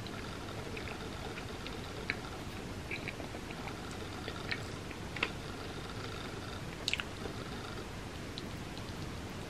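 A person chewing soft bread with mouth open, with a few small wet clicks and smacks scattered through; the sharpest is a quick double click about seven seconds in.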